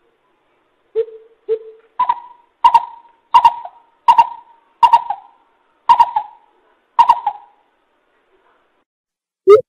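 Greater coucal calling: two low hooting notes about a second in, then a run of about eight higher, evenly spaced hoots, roughly one every 0.7 s, stopping a couple of seconds before the end.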